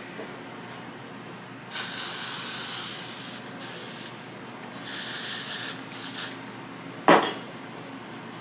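Aerosol hair spray being sprayed in several hissing bursts: one long spray, then a few shorter ones. Near the end there is a single sharp knock.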